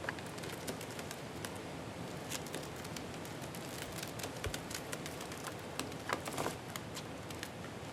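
Scattered small, sharp clicks and light rustling over a steady hiss, typical of a budgie moving about and pecking, with a denser cluster of clicks about six seconds in.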